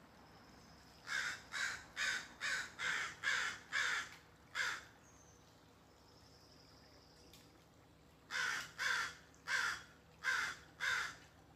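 American crow cawing: a quick run of about eight harsh caws, a pause of a few seconds, then another run of about six.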